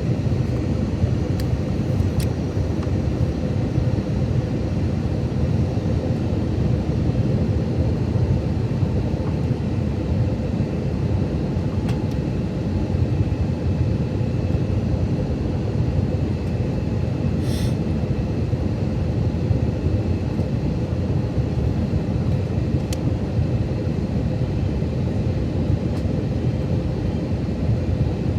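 Steady cabin noise of an Airbus A321-200 in flight: an even, low rush of engines and airflow with a faint steady hum.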